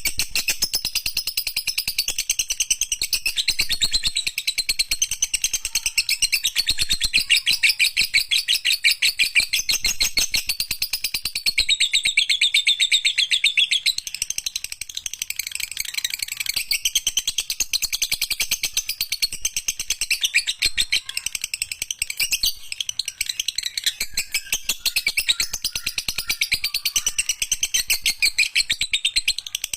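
Lovebird chattering in a long, unbroken run of rapid high chirps: the extended 'ngekek' song that bird keepers play to train other lovebirds.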